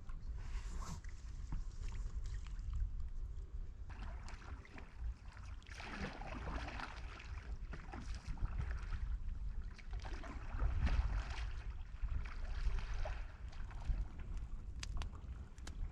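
Canoe paddle strokes in the water, a splashing swish every two to three seconds, over a steady low rumble.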